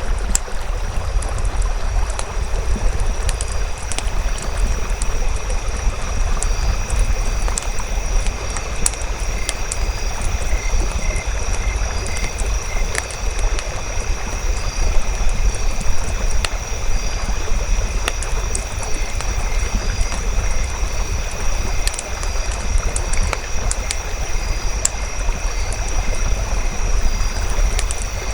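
Campfire crackling, with scattered sharp pops and snaps over a steady low rumble and a thin, steady high-pitched tone.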